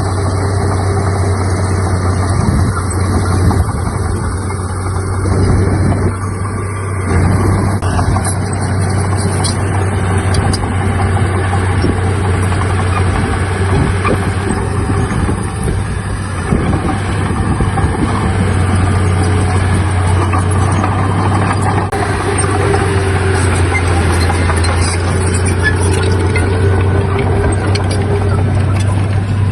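Heavy diesel engine of earthmoving machinery running steadily under work. The low engine note weakens somewhat around the middle and is strong again through the second half.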